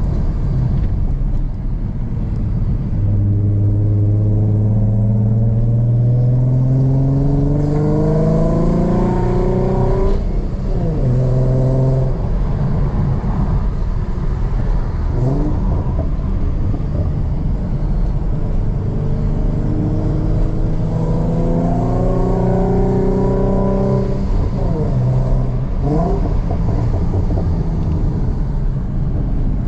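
Ford Mustang RTR V6 with a Roush aftermarket exhaust, driven hard. Its engine note climbs under acceleration for several seconds, drops about ten seconds in, then climbs again from about twenty seconds and eases off near twenty-five.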